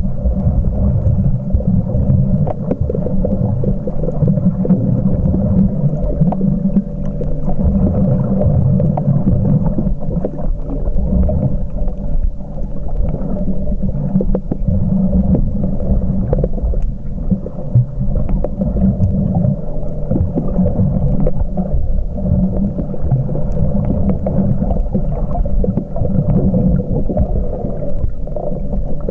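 Muffled underwater sound recorded by a camcorder while snorkeling: a continuous low rumble and churn of moving water, with a steady low hum underneath and scattered faint clicks.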